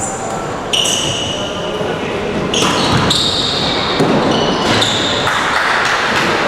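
Indoor basketball game: sneakers squeaking on the court several times and a ball bouncing, with players' voices in a reverberant gym.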